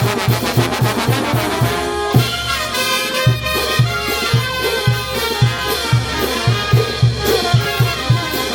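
Brass band playing, with trumpets and trombones over a steady low drum beat about twice a second. The drum drops out for about a second around two seconds in, then picks up again.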